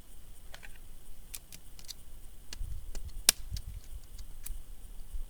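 Light knocks and clicks of dry, dense hardwood pieces being handled and split, with one sharp crack a little over three seconds in and a few dull thuds around it.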